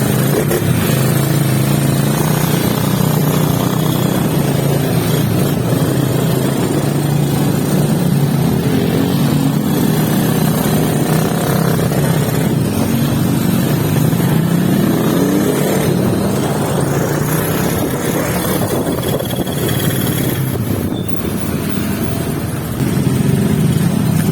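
Motorcycle engine running while the bike is ridden, its pitch rising and falling with the throttle.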